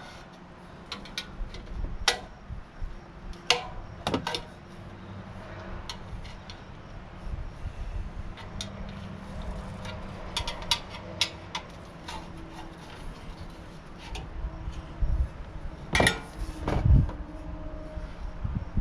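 Hand tools working on metal fittings: irregular clinks, taps and knocks, with a few heavier strikes and thuds near the end.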